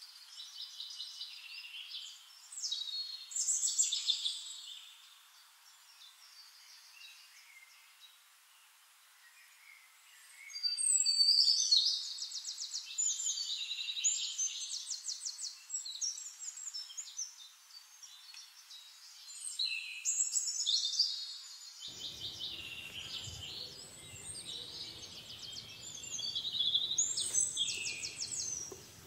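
Songbird singing: repeated bursts of rapid, high trilled chirps, loudest about a third of the way in. A faint low noise comes in about three quarters of the way through.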